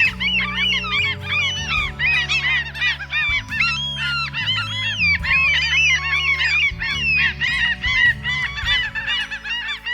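A flock of geese honking, many short calls overlapping without a break, over background music with low held notes.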